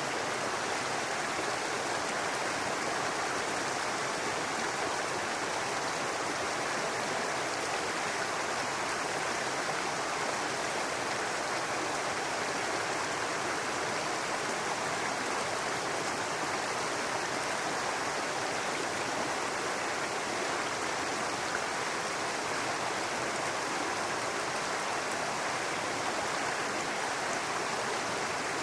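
Small brook babbling and running steadily, an even, unbroken rush of water.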